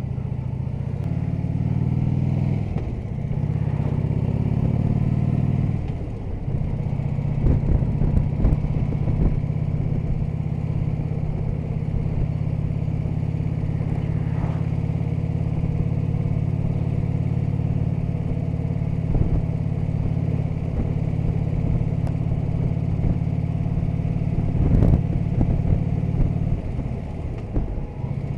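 Harley-Davidson Electra Glide's V-twin engine pulling away, its pitch rising through two gears in the first six seconds with a dip at each shift, then running steadily at cruising speed. A few knocks come through around eight seconds in and again near the end.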